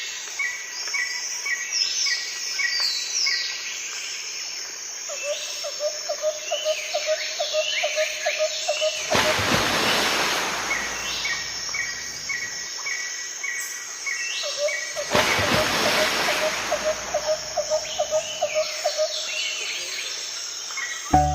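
A chorus of insects and birds: a steady high insect buzz, repeated short chirps and a fast trill. Two surges of rushing noise, each about three seconds long, come about midway and again a few seconds later.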